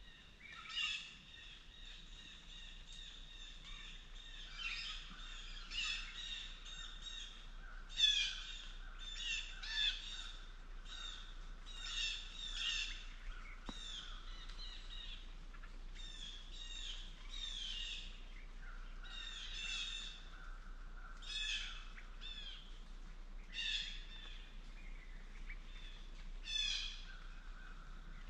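Wild birds calling: many short, high chirping calls repeating every second or two over a steady background of birdsong.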